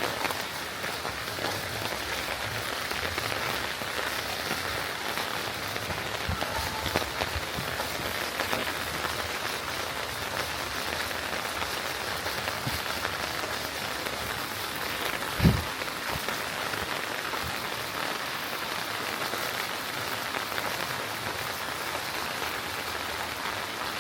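Steady rain falling and pattering, with a single dull low thump about two-thirds of the way through.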